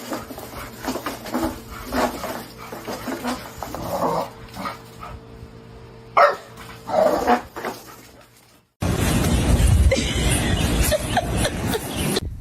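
A dog barking and whimpering in short separate calls. After a sudden cut about nine seconds in, a loud steady rushing noise takes over.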